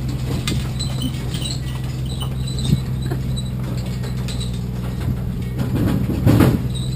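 Vehicle engine running with a steady low hum as the vehicle moves forward, with scattered clicks and rattles and faint high chirps. A louder, rough burst of sound comes about six seconds in.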